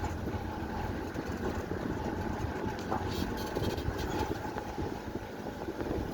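Steady engine and road noise of a moving vehicle, a low even rumble throughout.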